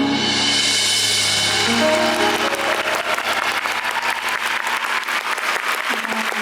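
A live band's final chord rings out with a cymbal wash, and audience applause rises over it about two seconds in and carries on.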